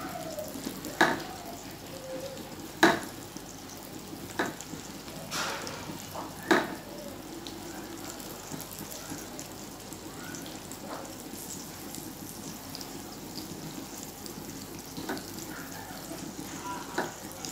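Okra frying in hot oil in a kadhai, a steady sizzle. A few sharp clicks or taps stand out over it, about five in the first seven seconds and two fainter ones near the end.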